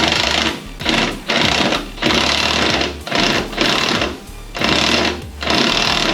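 Power wrench rattling in repeated short bursts of under a second, about eight in all, as it runs bolts in to tighten the step-bar brackets on the truck.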